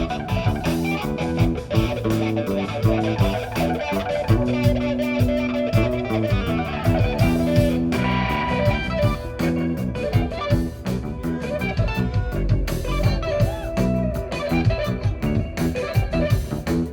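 Live rock band playing an instrumental passage: electric guitar playing over bass guitar and a drum kit.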